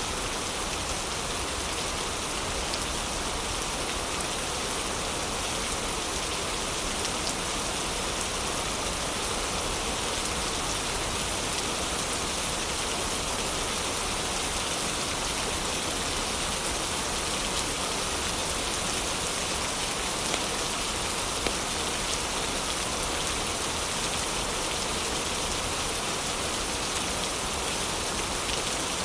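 Heavy rain falling steadily, an even unbroken hiss, with a couple of brief pops about two-thirds of the way through.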